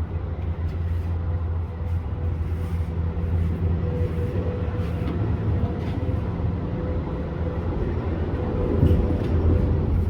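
Peterbilt big rig's diesel engine running steadily, a low drone with a faint steady whine above it.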